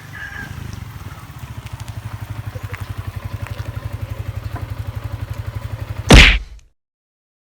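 A small engine running with a rapid, even pulse, growing louder, then a loud thump about six seconds in, after which the sound cuts off.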